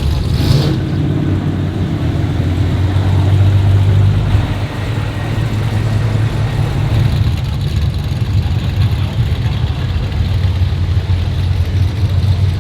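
Car engine running with a steady low rumble, with a brief rush of noise about half a second in.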